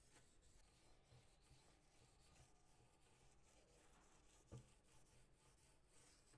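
Near silence, with faint rubbing and one soft knock about four and a half seconds in.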